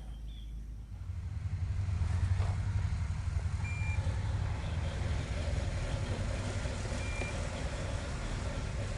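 Low, steady truck engine rumble that comes in about a second in, with two short high beeps a few seconds apart.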